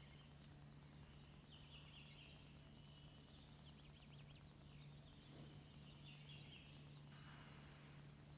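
Near silence with faint songbird calls: scattered high chirps and quick trills, over a low steady hum.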